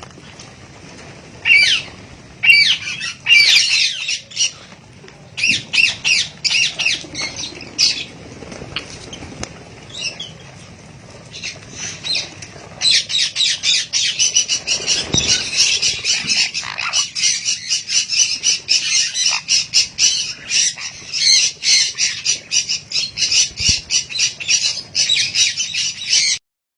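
A bird giving harsh, noisy calls, scattered at first and then, about halfway in, a fast unbroken chatter of about five calls a second that stops abruptly near the end.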